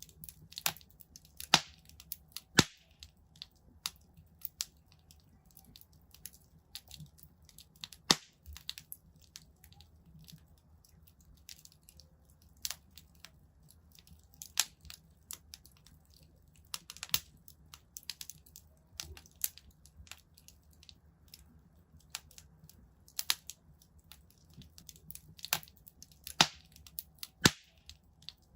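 Wood fire in a fireplace crackling: irregular sharp pops and snaps, a few loud ones several seconds apart among many fainter ticks, over a faint low rumble.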